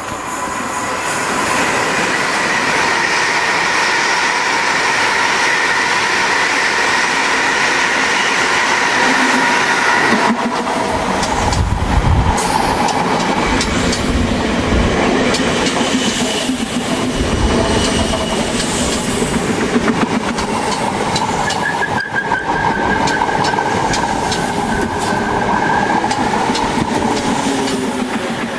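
A train running through a station: a steady high-pitched whine for the first ten seconds or so, then a heavy low rumble with rapid clicking of wheels over rail joints, and the high whine again near the end.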